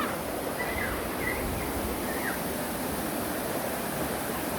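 Mountain valley stream flowing with a steady rush of water, with a few short high chirps in the first couple of seconds.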